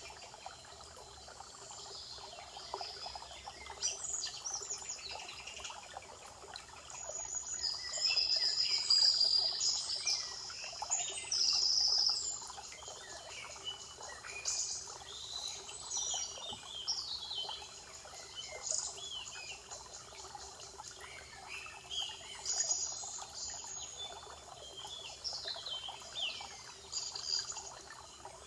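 Several songbirds singing and calling over one another in a spring forest chorus, with short sweeping whistles and trills that come thickest around the middle, over a steady faint background hiss.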